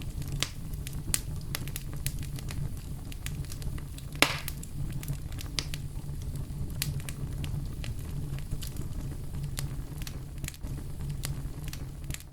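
Wood fire burning in a fireplace: irregular crackles and pops over a steady low rumble, with one louder pop about four seconds in.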